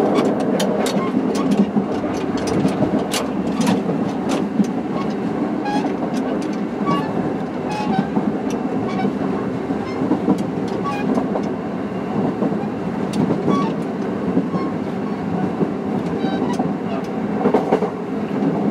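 Kintetsu 3220-series electric train running: a steady rumble with frequent clicks and knocks throughout.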